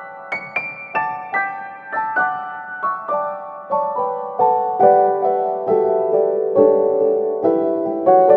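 Background music: solo piano playing a gentle melody of single notes, about two or three a second, each ringing and fading.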